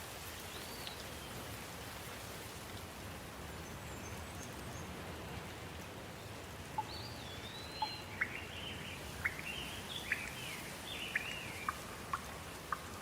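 Steady rain falling, with a bird giving one short call near the start and a run of chirping calls from about halfway through.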